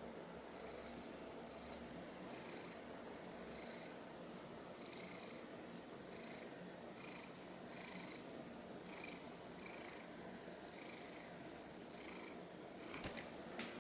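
Domestic cat purring faintly, the sound pulsing in time with its breaths, with two sharp clicks near the end.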